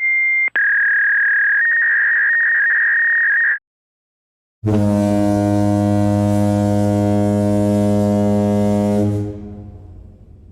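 Two synthetic sound effects in turn: a high, steady electronic beep lasting about three and a half seconds, with a click and a small pitch shift early on, then after a short gap a low buzzing horn tone that holds for about four and a half seconds and fades out near the end.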